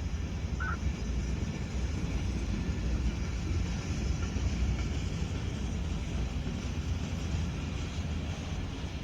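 Freight cars of a passing train rolling by on the rails: a steady low rumble with a noisy hiss over it.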